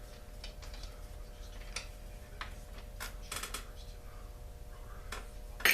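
Scattered light clicks and taps of tools and plastic and metal parts being handled on a Poulan Pro chainsaw while the spark plug is taken out, with one louder sharp click near the end, over a steady low hum.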